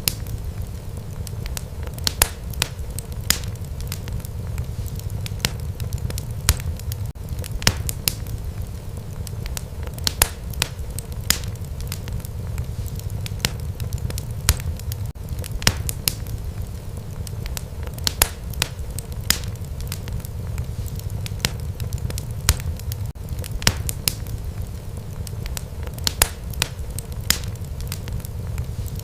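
Wood fire burning in a fireplace: a steady low rumble of flames with sharp crackles and pops at irregular moments, a few every second.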